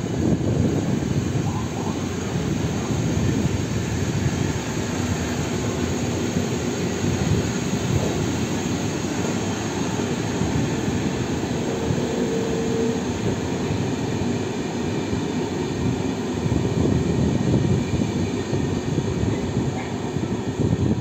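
Passenger coaches of an Intercity train rolling past on the rails as the train moves away: a steady rumble of wheels and bogies, with a brief faint whine about twelve seconds in.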